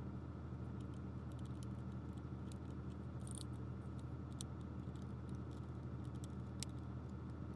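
Scattered small clicks and taps of plastic toy parts being handled and worked, a couple of sharper clicks about three seconds in and near the end, over a steady low hum.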